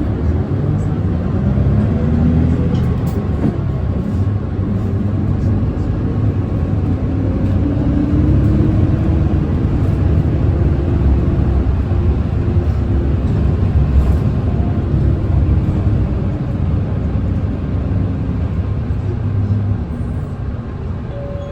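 Nissan Diesel Space Runner city bus's diesel engine running under way, heard from inside the cabin. The engine note climbs in pitch over the first couple of seconds, then runs steadily, and eases off near the end as the bus slows.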